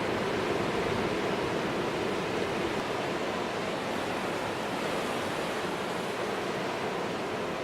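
Heavy storm surf breaking on a rock jetty, a steady even rush of water with no separate crashes standing out.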